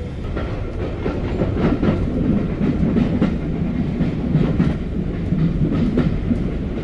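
Train running along the track: a steady rumble from the wheels and running gear, with irregular clicks as the wheels pass over rail joints.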